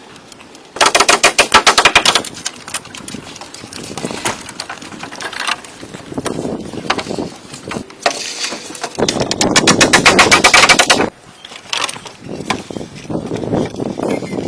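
A power tool cutting wood in two loud bursts of rapid rattling, each about one and a half to two seconds long, near the start and about nine seconds in. Quieter irregular knocks and scraping on wood fill the time between and after.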